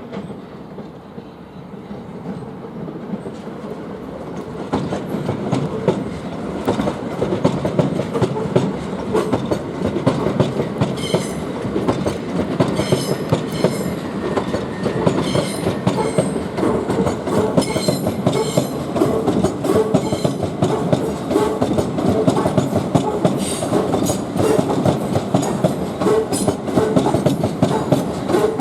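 A 12-car Southern Class 377 electric multiple unit running in past, its wheels clattering over rail joints. The clatter grows louder over the first five seconds and then stays steady, with sharp high clicks from the wheels repeating every couple of seconds.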